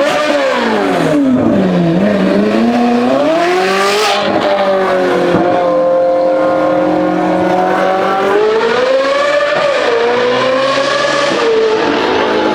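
Ferrari 458 Speciale's naturally aspirated V8 through a straight-piped exhaust. The engine note drops and climbs back within the first few seconds, holds fairly steady, then rises and falls again near the end. The sound is loud throughout.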